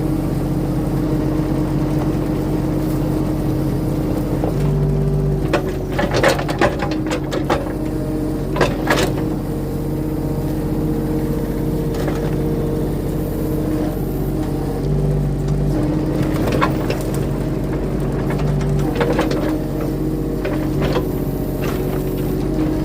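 Mini excavator's engine running steadily as it works the hydraulics dragging a tree out. The engine note shifts under load about five seconds in and again about fifteen seconds in. A cluster of sharp knocks and clanks comes between about six and nine seconds in, with a few more later.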